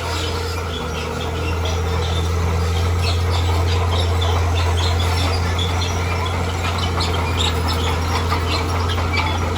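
Diesel engine of a heavy earthmoving machine running steadily with a low hum, growing louder a second or two in, with many short high chirps scattered over it.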